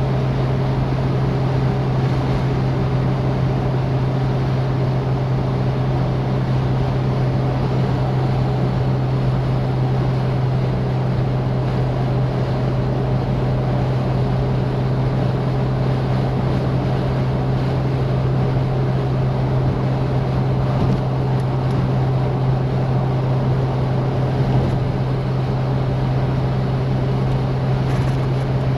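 Citroën DS's four-cylinder engine running at a steady cruising speed, a constant low hum under an even rush of road and wind noise.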